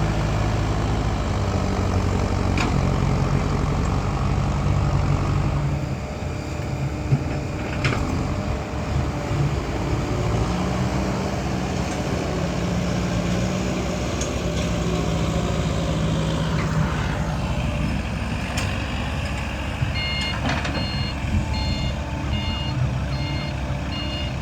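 Heavy diesel dump truck running at a dig site, its engine note shifting up and down. Near the end a reversing alarm starts beeping steadily, about two beeps a second, as the truck backs up.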